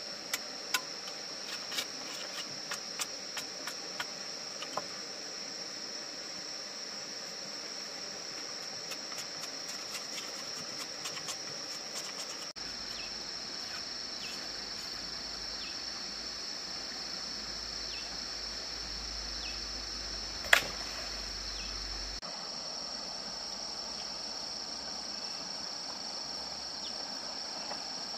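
Insects trilling steadily in a high, unbroken chorus. Scattered sharp ticks come in the first few seconds, and one loud sharp click about two-thirds of the way through.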